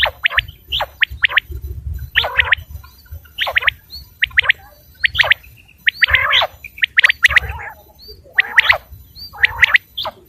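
Quail calling: sharp, liquid whistled notes in quick groups of two to four, repeated about every second, some phrases opening with a lower rasping note.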